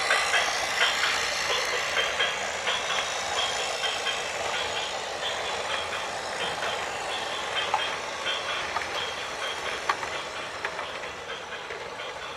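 Heavy vehicle running, with a reversing alarm beeping over it.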